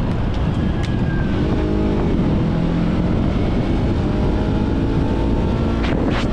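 Motorcycle engine running under way, with a steady rush of wind and road noise.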